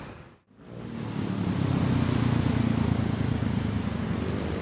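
Roadside traffic noise with a low vehicle rumble. It drops out for an instant about half a second in, then comes back louder and steady.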